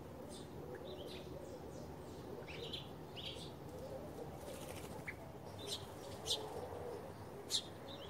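Small garden birds chirping in short, high calls, with a brief rush of wing flaps about halfway through and three sharp, louder chirps in the second half.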